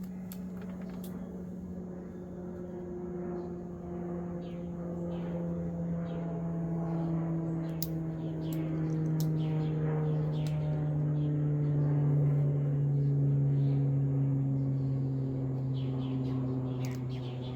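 A steady low hum that slowly sinks in pitch, with frequent small clicks and snips from wire being cut and handled with cutters.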